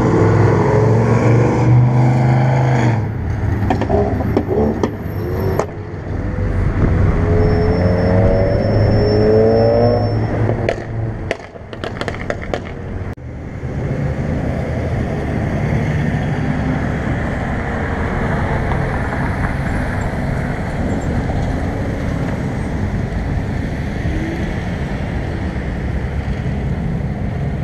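Cars cruising past on a city street: a loud, low engine rumble at the start, then an engine accelerating with a rising note for a few seconds, a handful of sharp clicks about halfway, and after that the steady sound of passing traffic and tyres.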